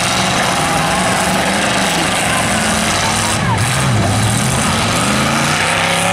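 Several demolition derby pickup trucks' engines running loudly, their pitch rising and falling as the drivers rev and let off.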